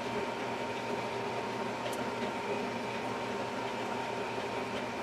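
Combine harvester running while cutting wheat, heard from inside the cab: a steady drone with several held tones.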